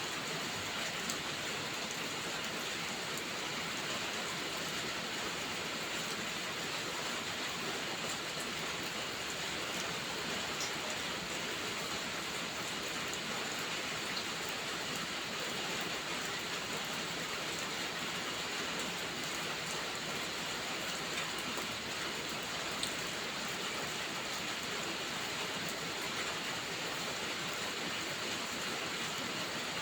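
Steady rain falling, an even hiss with a few faint scattered ticks of drops.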